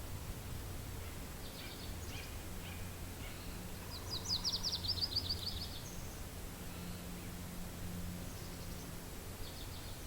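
Steady low wind rumble with a small songbird singing: a rapid run of about ten high notes about four seconds in, and a few faint chirps before and near the end.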